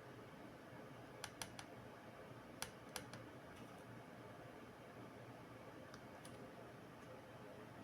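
A few faint, sharp clicks of small hard parts being handled: three in quick succession about a second in, two more around three seconds, and fainter ones later, over a low steady hum.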